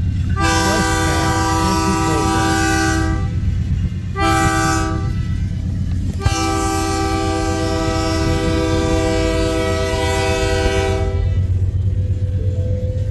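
Freight locomotive air horn sounding the grade-crossing pattern, a long blast, a short one and a final long one ending about eleven seconds in, over the steady low rumble of the passing train.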